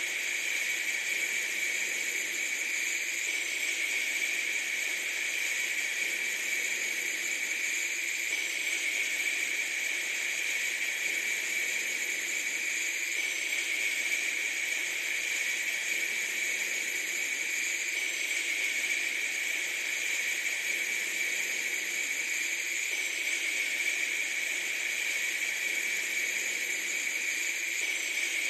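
A steady, unbroken hiss with a bright, sharp edge, even in level and without any rhythm or distinct events.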